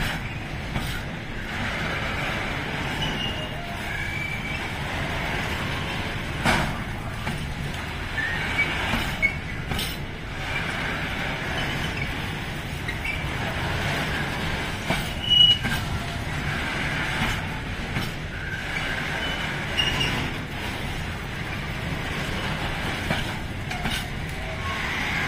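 Loaded container flat wagons rolling past on the rails: a steady rumble of wheels with short, high wheel squeals and occasional sharp knocks as the wheels pass over rail joints.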